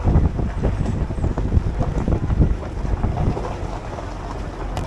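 Wind buffeting the microphone over the low rumble of a moving tour shuttle.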